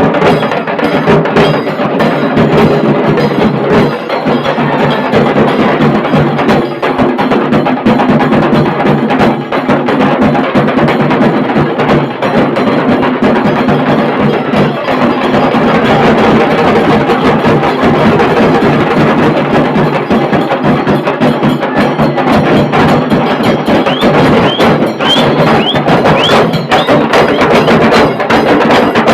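Dhol tasha band drumming: tasha drums beaten with sticks in fast, dense rolls over dhol, loud and unbroken. A few short rising squeals sound near the end.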